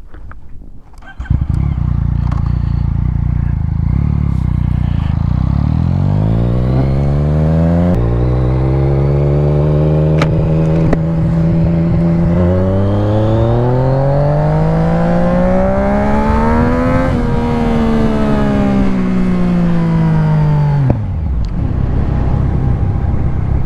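Motorcycle engine pulling away and accelerating through the gears, its pitch climbing in steps with each shift to a peak a little past the middle, then falling as the bike slows and settling low near the end.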